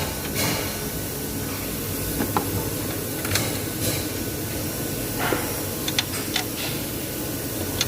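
Scattered light clicks and taps of hands and tools working on a car ECU and its mounting, over a steady low background rumble.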